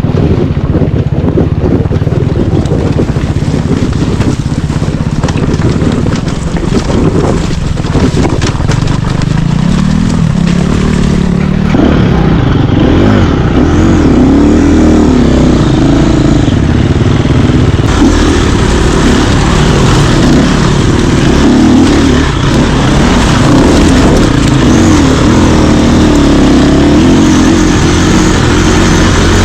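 Dirt bike engine running under way, low and steady at first, then revving up and down repeatedly from about twelve seconds in.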